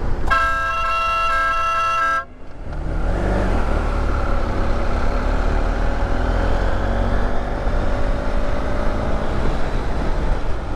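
A vehicle horn sounds one steady blast of about two seconds. Then comes the running noise of a vehicle on the road, with a heavy low rumble and an engine note that slowly rises in pitch.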